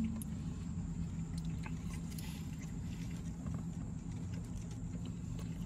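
Steady low hum inside a car cabin, with faint chewing and small mouth clicks from a man eating.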